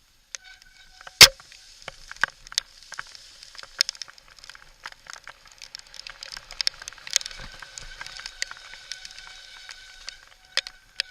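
Mountain bike rattling and clattering over a rough, rocky trail on a fast descent, with many sharp knocks and a heavy bang about a second in. A faint steady high tone runs underneath.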